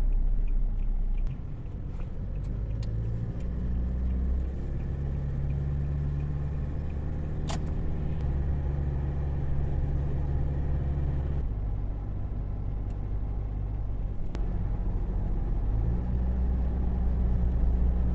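Toyota 1GD-FTV 2.8-litre four-cylinder turbodiesel driving on the road, a steady low drone whose pitch steps a few times as the engine speed changes. It runs smoothly with no rattle now that its worn timing chain has been replaced. A brief sharp chirp sounds about seven and a half seconds in.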